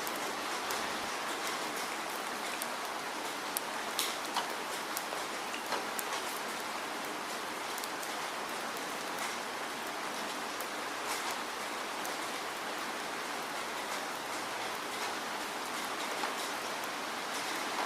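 Steady rainfall: an even hiss of rain with scattered sharp ticks of individual drops hitting close by.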